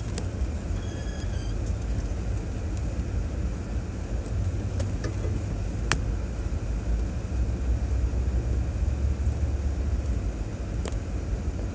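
2006 Chevrolet Trailblazer driving on a trail: a steady low rumble of engine and tyres, with a few sharp clicks and knocks scattered through it.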